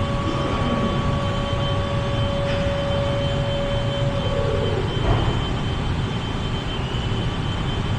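Steady machine hum with a rushing noise underneath. A humming tone in it cuts off about four seconds in.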